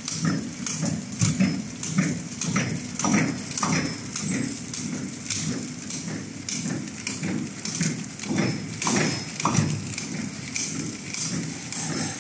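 Automatic four-side-sealing packaging machine for disposable spoons running, its mechanism clacking in a rapid, steady run of knocks.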